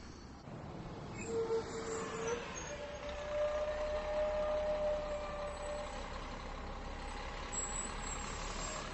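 Heavy truck running, a steady low rumble with two long steady whining tones, one briefly about a second in and a longer, higher one in the middle.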